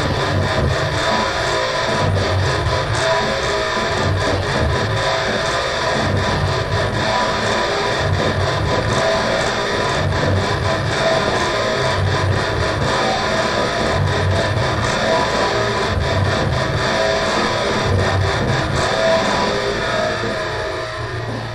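Noisy, distorted metal music: a dense wall of electric guitar with a low end that swells and drops in a slow, regular pulse, easing off slightly near the end.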